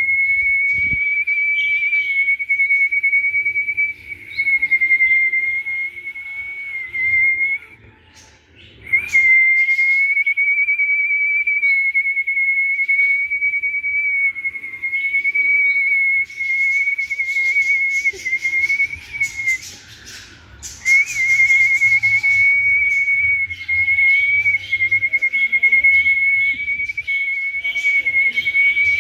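A loud, steady, high whistling tone with a slight waver, held for many seconds at a time and breaking off twice, with faint short chirps above it.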